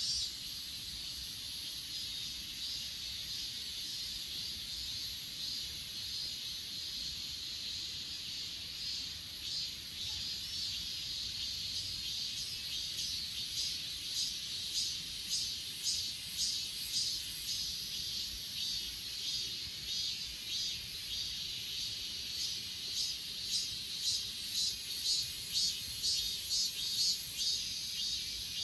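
Chorus of crickets and other grass insects trilling steadily in a high pitch, with one insect's pulsed chirps, about two a second, standing out through the middle and again near the end.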